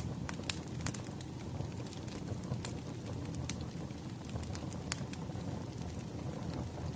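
Crackling wood fire: a steady low rumble of burning logs with sharp, irregular pops and snaps.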